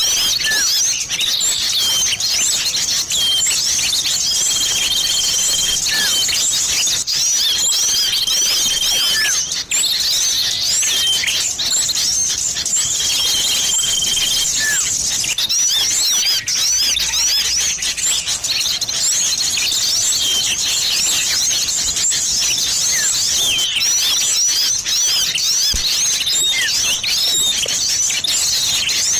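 A dense, unbroken chorus of many small birds chirping and twittering, from a bird-lure recording that mixes small-bird calls including the common iora. Several long, level whistles stand out in the first half.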